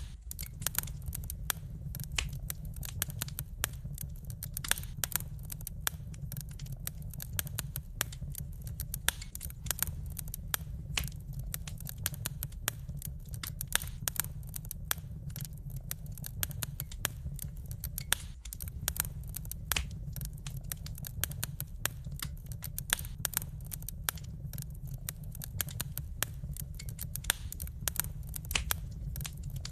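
Wood fire crackling: a steady stream of irregular sharp pops and snaps from burning logs over a steady low rumble.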